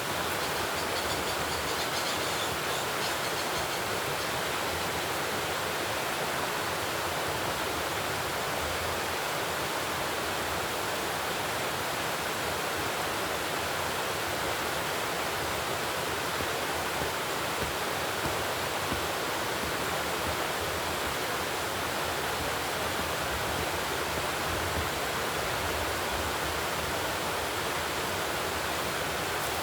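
Steady, unchanging rushing noise.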